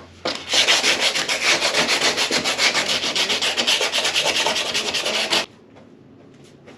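Rapid, even sanding or rasping strokes, about ten a second, on the motorhome's body for about five seconds, stopping suddenly.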